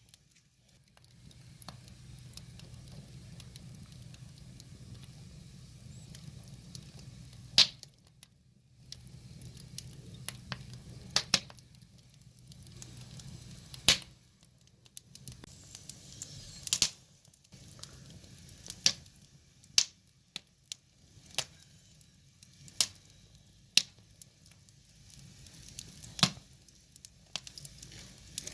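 Wood fire burning: a steady low hiss with irregular sharp crackles and pops from the burning logs.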